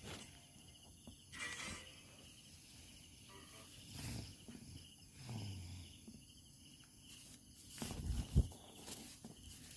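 Crickets chirping steadily, with a few dull thumps, the loudest about eight seconds in.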